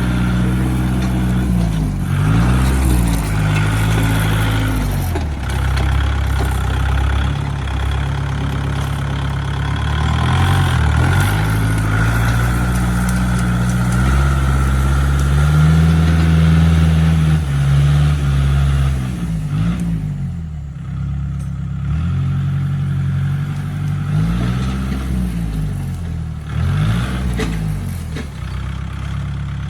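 Tractor engine running hard, its pitch dipping and rising again several times as the load on it changes.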